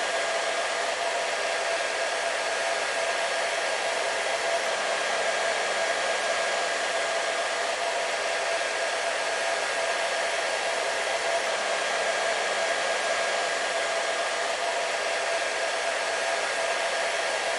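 Hair dryer running steadily: an even airflow hiss with a constant motor hum, no change in speed or level.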